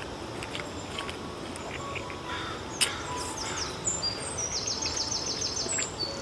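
Songbird singing outdoors: a quick trill of repeated high chirps starting about four seconds in, over steady outdoor background noise, with one sharp click near the middle.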